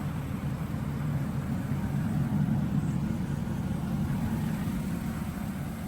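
Steady low drone of a 2024 Ram 1500's 5.7-litre Hemi V8 with road noise, heard from inside the cab while driving in four-wheel drive on light snow.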